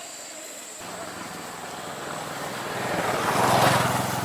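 A motorbike engine passing by: its hum starts about a second in, grows louder to a peak near the end and then begins to fade.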